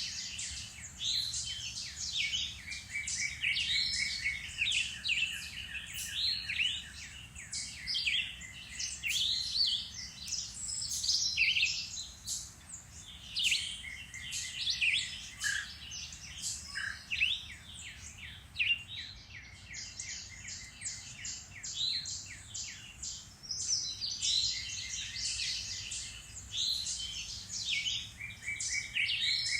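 Several songbirds singing and chirping at once in a dense woodland chorus of overlapping trills and quick notes, easing briefly about two-thirds of the way through.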